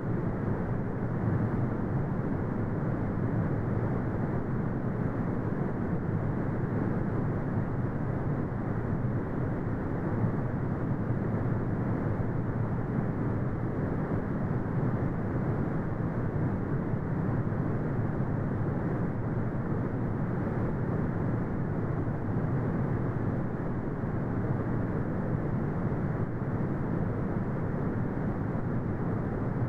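Steady brown noise: an even, deep rumbling hiss weighted toward the low end, with nothing above about 2 kHz and no changes.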